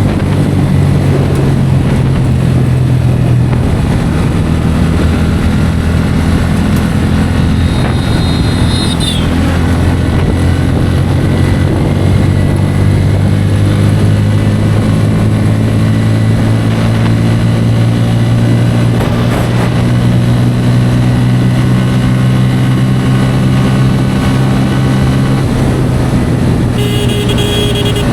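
Bajaj Pulsar N160's single-cylinder engine running steadily at cruising speed, heard from the rider's position with wind noise on the microphone. A vehicle horn sounds briefly near the end.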